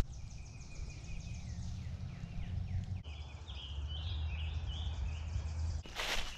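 Wild birds singing in woodland: a thin high trill with a few falling whistled notes, then a run of short, higher phrases, over a low steady rumble. Footsteps crunching on dry leaf litter start up near the end.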